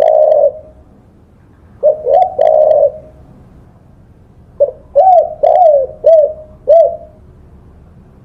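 Spotted dove cooing: a short coo phrase at the start and another about two seconds in, then a run of about five quick rising-and-falling coos in the second half.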